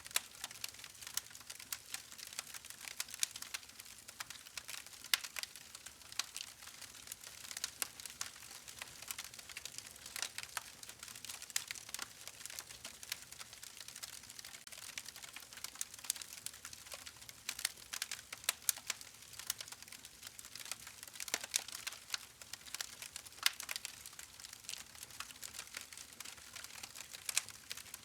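Campfire crackling: a dense, irregular run of sharp pops and snaps over a soft hiss, with the louder cracks scattered every second or so.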